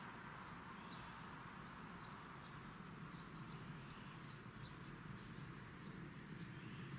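Faint, steady outdoor ambience hiss with small, high bird chirps scattered through it.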